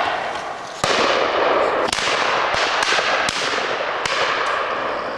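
Shotgun shots from guns around the woodland, about eight sharp reports at irregular intervals over a steady rushing noise.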